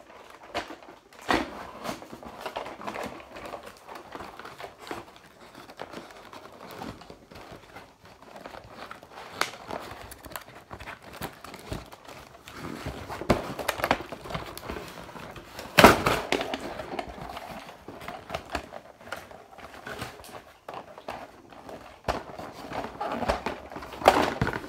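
Toy packaging being handled and opened: irregular rustling and crinkling with scattered knocks and clicks, the loudest knock about two-thirds of the way through.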